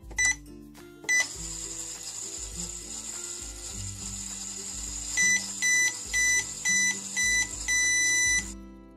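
Toy microwave's sound effects: a beep as it is started, then a steady high hiss as it runs for several seconds, ending in a string of about five short beeps and one long beep that signal it is done. Background music plays underneath.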